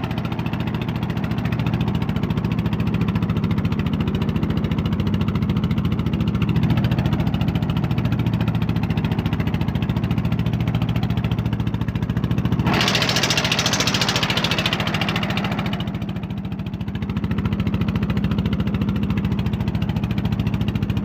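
A large engine idling steadily, with a loud hissing rush for about two seconds around the middle.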